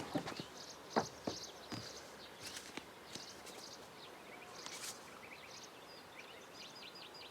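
Small birds chirping in short, high twitters, with a quick run of about five chirps near the end, over faint outdoor background. A few soft knocks sound in the first second and a half.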